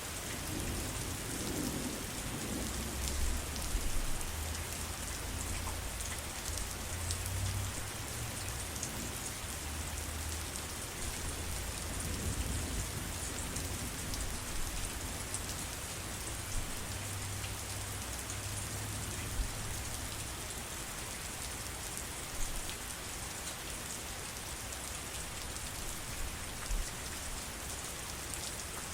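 Steady rain falling on surfaces, with scattered louder drops landing close by. A low rumble runs under it from about a second in until around two-thirds of the way through.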